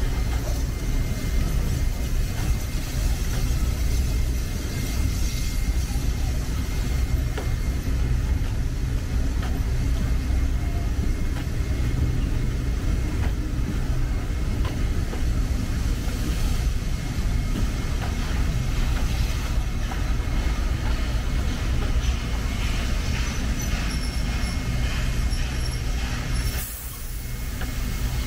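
Heritage passenger carriages behind NSWGR D59 class steam locomotive 5917 rolling out of the station, a steady low rumble of steel wheels on the rails with faint rhythmic clicking.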